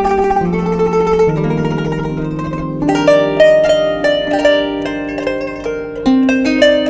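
Kanun, the Turkish plucked zither, playing a slow melody: single plucked notes start sharply and ring on over one another.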